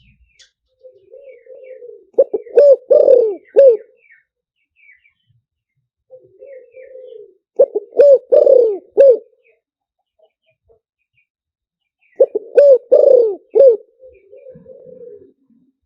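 Spotted dove cooing, a decoy bird's call used to lure wild spotted doves. It gives three phrases about five seconds apart, each a soft low lead-in followed by three or four loud coos.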